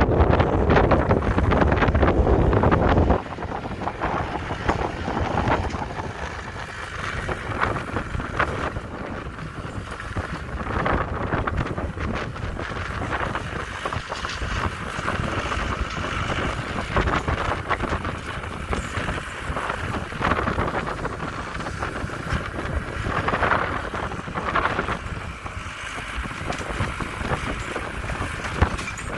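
Wind buffeting the microphone in a snowstorm: a steady rushing noise with scattered crackles, louder for the first few seconds and then dropping suddenly about three seconds in.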